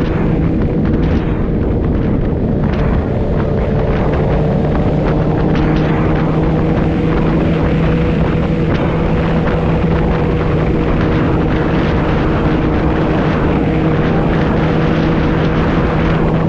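Motorcycle engine running at a steady cruising speed, its pitch holding nearly level, under a constant rush of wind and road noise.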